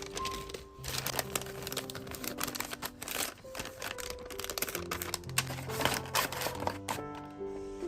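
Packaging being handled: crinkling and rustling of wrapping with many small clicks and taps, as orders are packed by hand. Soft background music with slow held notes plays underneath.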